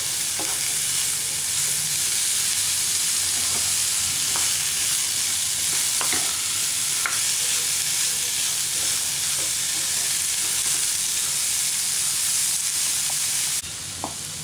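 Diced chayote frying in oil in a nonstick pan, sizzling steadily while a wooden spatula stirs it through the spice masala, with a few light scrapes. The sizzle drops off sharply near the end.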